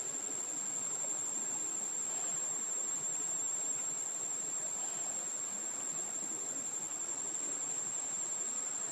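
Insects trilling in one steady, unbroken high-pitched tone, over a faint even background hiss.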